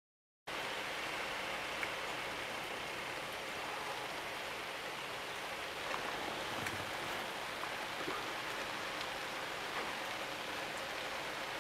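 Steady rain, an even hiss with a few faint scattered ticks, after a half-second gap of silence at the very start.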